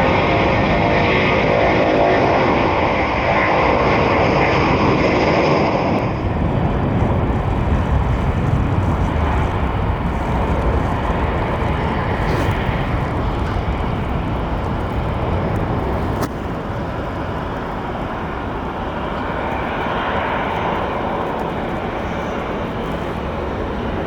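Airbus A330 jet engines at takeoff power: a loud roar with steady whining tones. About six seconds in, the high whine drops away, leaving a low rumble that fades slowly as the airliner climbs away.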